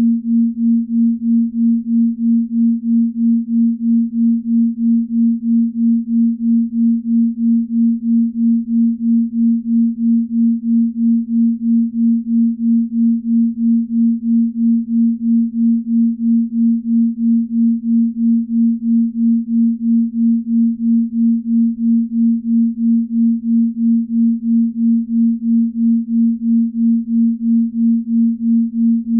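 Binaural beat tone: a steady pure low tone a little above 200 Hz that swells and fades evenly about two to three times a second, the beating of two slightly detuned tones.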